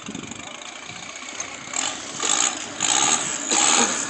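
Rock crawler's engine revving in four short, loud bursts in the second half, over a steadier engine noise.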